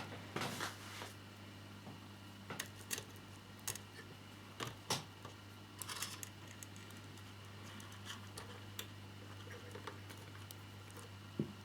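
Faint, scattered clicks and taps of small plastic model parts being handled and fitted together, over a steady low hum.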